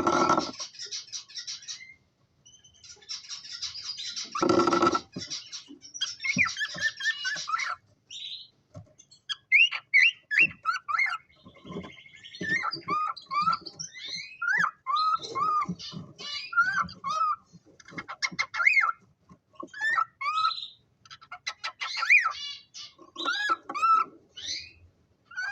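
Cockatiels calling: harsh screeches in the first few seconds, then a long run of short, bending whistled chirps.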